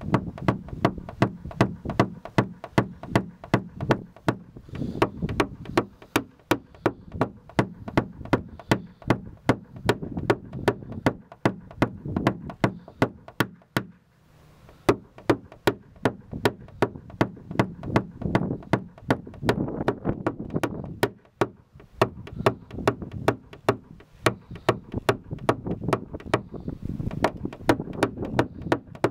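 Rapid, evenly spaced metal taps, about three a second, in runs broken by two short pauses: a paintless dent repair tap-down tool being struck against a car body panel to level the dent's high spots.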